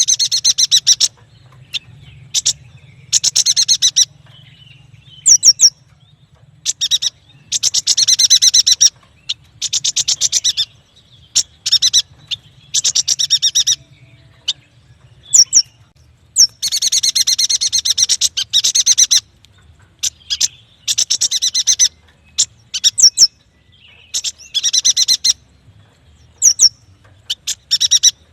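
A yuhina singing: repeated bouts of fast, high-pitched chattering trills, each about one to two seconds long, with short sharp upward chirps between them.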